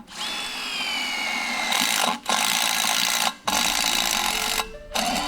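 Power tool working in the shop, starting abruptly with a whine that falls in pitch over the first second and a half, then running in a loud hiss broken by three brief stops.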